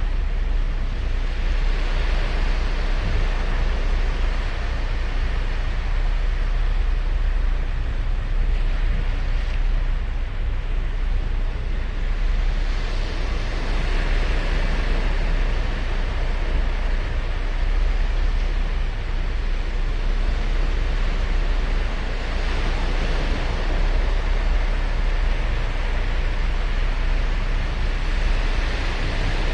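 Ocean surf on a sandy beach: waves breaking and washing up the shore, rising to a louder hiss every several seconds over a steady low rumble.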